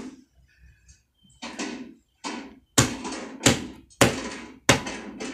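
Heavy, evenly spaced thumps from a TV soundtrack, about one every 0.7 seconds, starting after two softer sounds about halfway in.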